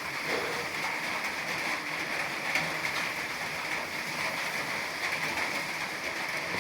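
Rain falling in very large drops: a steady patter with occasional sharper single drop hits.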